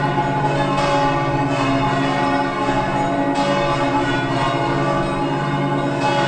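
Church bells ringing, several bells sounding over one another with fresh strikes about once a second, each note left ringing.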